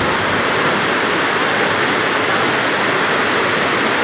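Rushing floodwater from heavy rain, a loud steady torrent without breaks.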